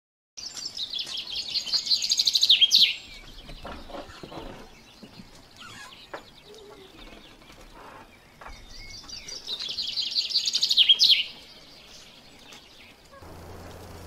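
A songbird singing two long, rapid trilled songs, about six seconds apart, each growing louder and ending in a quick falling note, with fainter chirps between them. Near the end a steady low hum comes in.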